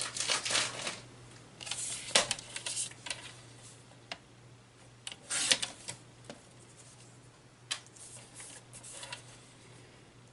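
Cardstock and paper being handled on a craft table: short rustles, slides and light taps, loudest about two seconds in and again around five and a half seconds, over a faint steady low hum.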